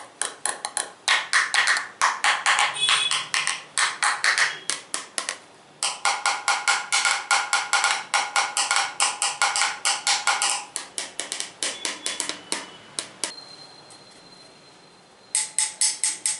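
Fast tapping on hard objects, several sharp taps a second in long runs. The taps stop for about two seconds near the end while a faint ringing tone lingers, then the tapping starts again.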